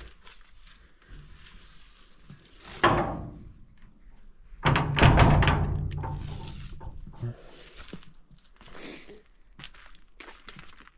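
Two dull thuds as something is handled and set down: a sharp one about three seconds in, then a louder one with a low ringing that fades over a couple of seconds.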